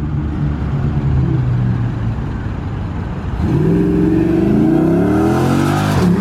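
Car engine accelerating hard in a full-throttle pull. The engine note builds steadily, then climbs sharply and gets louder about three and a half seconds in, with a sudden drop in pitch near the end like a gear change.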